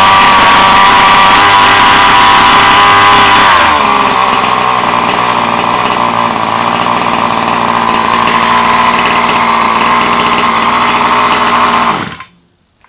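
30.5 cc two-stroke Baja RC-car engine running at high revs, then dropping back to a lower steady speed about four seconds in. The sound cuts off near the end.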